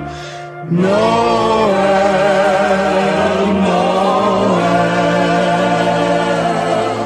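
Choir singing a Christmas carol in long held notes, with a short break between phrases near the start and again near the end.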